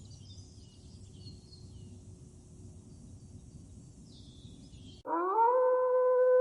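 Faint outdoor background with a few thin bird chirps, then about five seconds in a loud, long howl starts, sliding up briefly and then held on one steady pitch.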